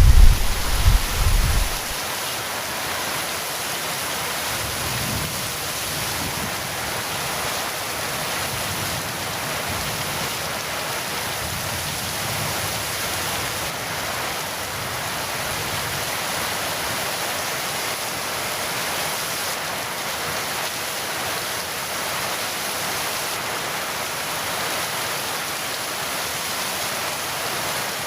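Heavy rain falling steadily in an even hiss. The low rumble of thunder dies away in the first two seconds.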